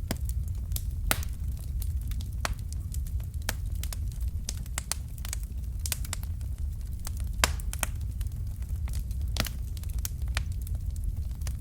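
Fire in a fireplace crackling: irregular sharp pops and snaps, a few louder ones standing out, over a low steady rumble.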